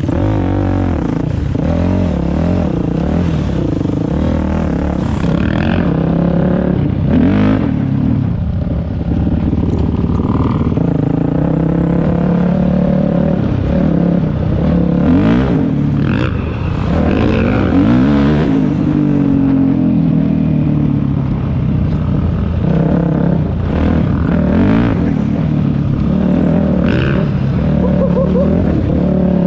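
Dirt bike engine running and revving up and down as it is ridden along a trail, with a few brief knocks.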